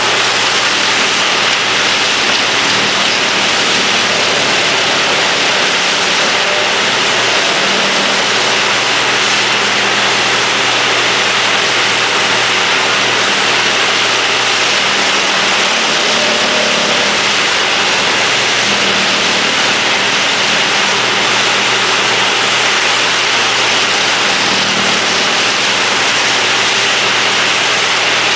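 Forwarder-mounted Erjo 9/93 wood chipper running and chipping wood: a loud, even rushing noise over the steady hum of the diesel engine, with no let-up.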